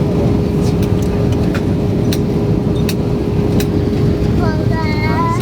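Steady cabin drone of an Airbus A320 in flight on approach: engine and airflow noise with a constant hum and a few faint clicks. A voice starts talking near the end.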